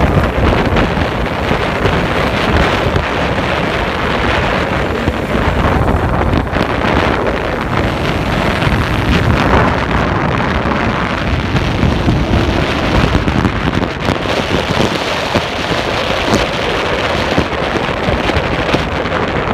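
Loud, steady rumbling noise with wind buffeting the microphone, without a clear rhythm.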